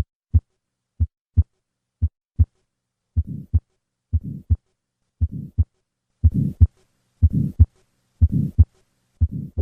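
Heart sounds, with paired lub-dub beats a little under one a second. The first three beats are clean. From about three seconds in, murmurs fill the beats: the murmurs of pulmonic stenosis and pulmonic regurgitation.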